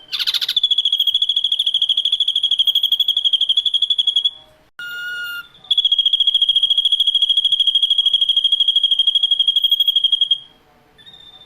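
Ashy drongo singing: two long, rapid trills held on one high pitch, each about four seconds, with a short burst of several different whistled notes between them.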